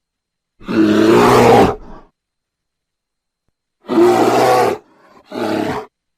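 A large wild animal roaring three times, the first call the longest and the last the shortest, with silence between them.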